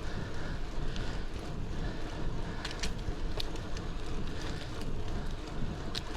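Wind rushing over a chest-mounted action camera's microphone while cycling, a steady low rumble, with a few sharp ticks about halfway through and again near the end.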